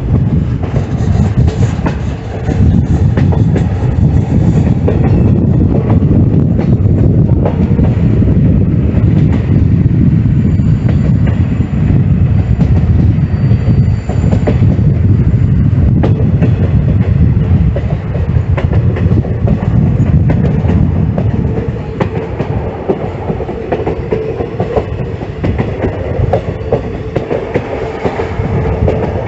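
Passenger train running along the track: a loud, steady rumble with the wheels clattering over the rails in quick clicks.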